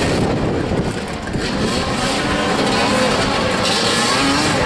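Motoball motorcycles running on the pitch, their engines revving up and down in overlapping rising and falling whines.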